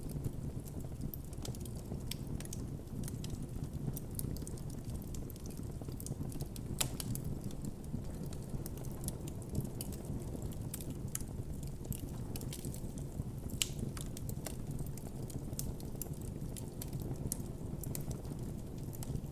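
Wood campfire burning with a steady low rumble and frequent irregular crackles and pops, a few sharper pops standing out.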